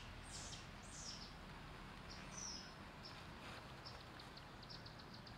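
Faint outdoor ambience with small birds chirping: a few short, high, falling chirps, then a quick run of short high chirps, several a second, starting a little past halfway, over a low steady hum.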